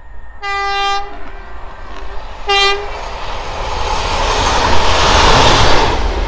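A train sounds its horn twice, about half a second in and again at about two and a half seconds, the second blast shorter. The train then passes close by with a rising rush of wheels on rail, loudest around five to six seconds in, then easing.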